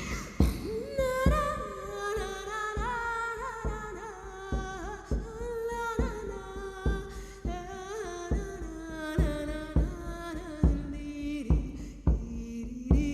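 A single voice singing a slow melody in long held notes that slide gradually lower in pitch, over a steady drum beat of roughly one stroke a second.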